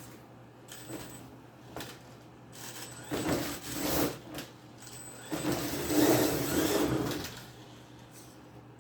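Brushless electric RC monster truck driving in two short runs, about three and six seconds in, with tire and gear noise louder than the almost silent motor. A thin, steady high whine sits underneath.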